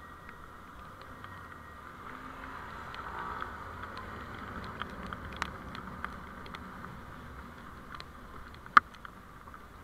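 Steady vehicle road noise as picked up by a dashcam's small microphone, with scattered light clicks and rattles and one sharp, loud click near the end.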